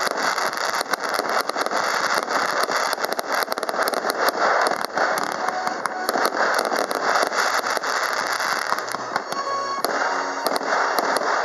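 Aerial fireworks display: a dense, continuous rattle of crackling and popping from bursting shells and crackling stars. The crackle thins out a little near the end.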